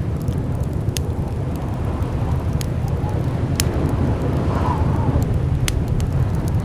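Blizzard wind with a deep, steady rumble and a faint howl rising and falling about two-thirds of the way through, with scattered sharp clicks over it.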